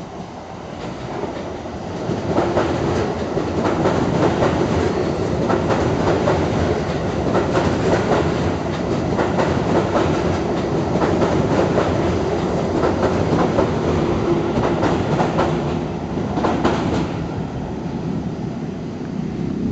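Keio 9000 series eight-car electric train passing at speed through a station, with a rhythmic clickety-clack of wheels over the rail joints. About 17 seconds in the sound drops to a quieter, lower rumble as another train approaches.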